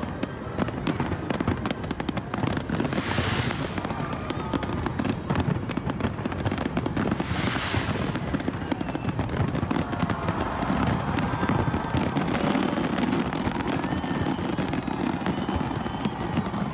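Fireworks display: a continuous dense run of bangs and crackles, with two brief hissing swells about three and seven seconds in.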